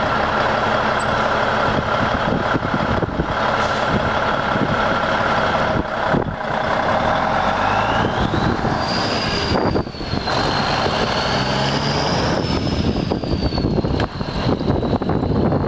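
A 1994 White/GMC heavy truck's diesel engine running steadily. About eight seconds in, a high whine rises in pitch and then holds.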